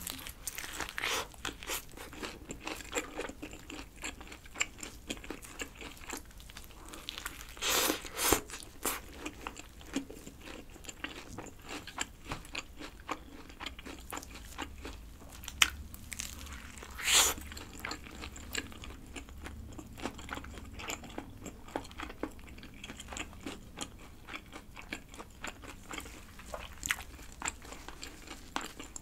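Close-miked biting and chewing of a chicken burger with a breaded chicken-breast patty: repeated crisp crunches of the coating between softer chewing, with a few louder crunches about eight and seventeen seconds in.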